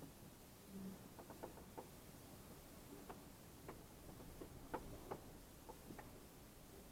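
Near silence broken by a scattered series of faint, short clicks and ticks, about a dozen of them.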